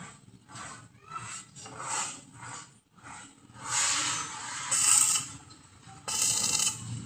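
A series of irregular scraping and rubbing strokes: short ones in the first few seconds, then longer, louder ones from about four seconds in and again near the end.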